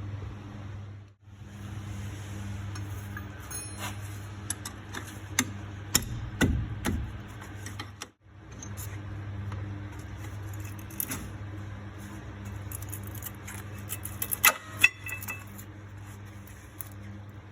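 Scattered metallic clinks and taps of tools and brake parts being handled during a brake pad change, over a steady low hum, with a brisk run of louder clinks near the end.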